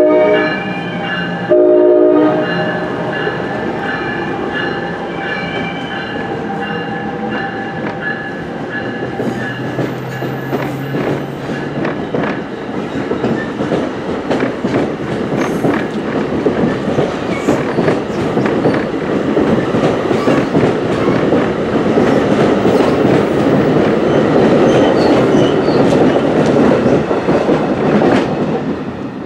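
NJ Transit passenger train with multilevel cars rolling past as it pulls out of the station, the wheels clicking over rail joints, the rumble building and then dropping away near the end as the last car clears. The train's horn sounds at the start, ending in a short blast about two seconds in.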